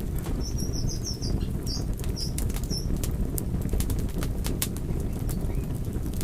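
A wood fire burning, with a steady low rumble of flames and frequent sharp crackles and pops. A cluster of short, high squeaks sounds between about half a second and three seconds in.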